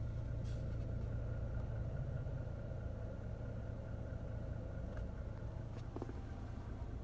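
Third-generation Toyota Tacoma with crawl control engaged, making a weird noise: a steady low hum with a buzzing overtone as the system works the brakes. A few faint clicks come around five to six seconds in.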